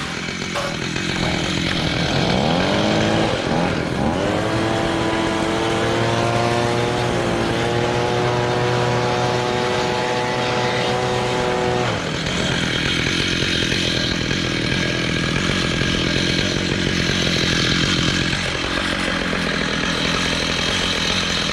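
Chainsaw on an Alaskan chainsaw mill revving up a couple of seconds in and holding a high, steady pitch, then from about halfway changing to a rougher, steady sound as the bar cuts lengthwise through the butternut log.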